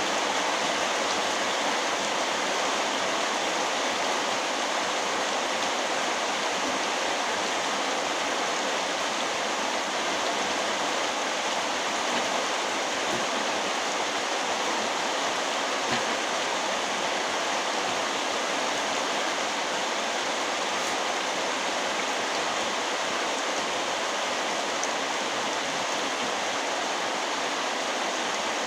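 Very heavy rain falling in a steady, dense downpour.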